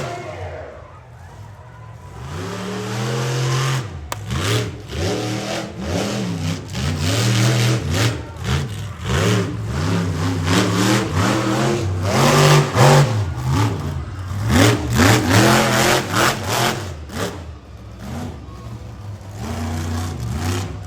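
Monster truck engine revving hard over and over, its pitch climbing and dropping as the throttle is blipped and held, with a few sharp knocks.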